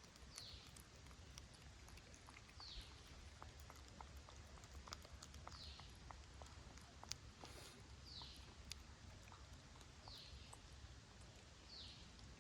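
Faint, high, falling squeak of a small animal, repeated six times about every two seconds, with scattered soft clicks over a low hum.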